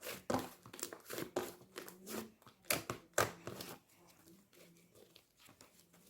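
Cheese slime being squished and stretched by hand: a dense run of small crackling pops and clicks that thins out after about four seconds.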